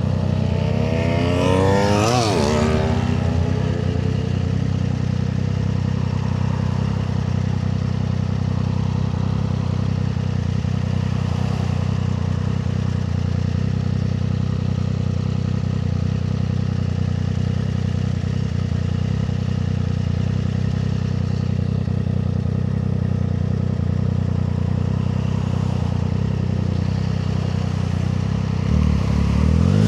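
Triumph Street Triple 765 RS inline three-cylinder engine running steadily at cruising speed. About two seconds in, another sound sweeps past with a falling pitch, and near the end the engine note starts to rise as the bike accelerates.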